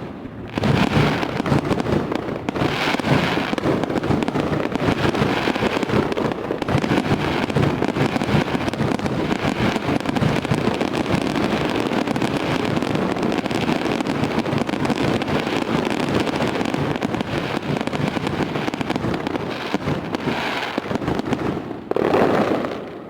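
Fireworks display: a dense, continuous barrage of bangs and crackling, with a louder burst near the end that fades away.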